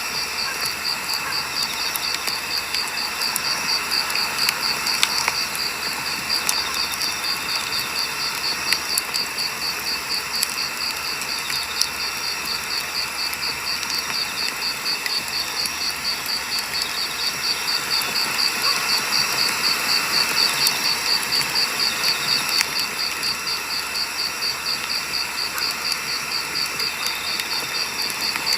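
Burning firewood crackling, with scattered sharp pops, several of them around five seconds in and near the middle. Over it runs a steady, evenly pulsing high chirp of insects.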